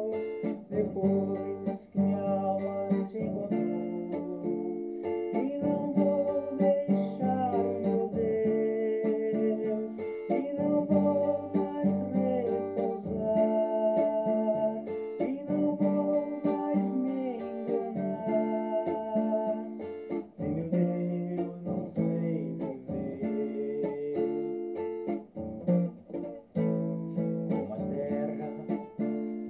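Acoustic guitar playing a song, strummed and plucked chords ringing continuously.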